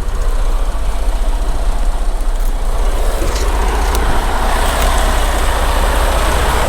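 Semi truck's engine running with road noise while the rig is driving: a steady low rumble, with a hiss of road and wind noise that grows louder from about the middle.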